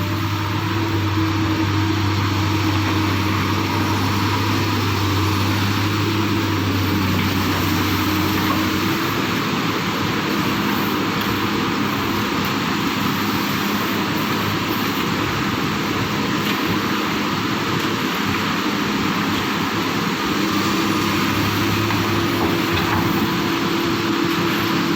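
Excavator's diesel engine running steadily with a continuous hum; from about nine seconds in the hum turns rougher and noisier, then settles back to the steady tone near the end.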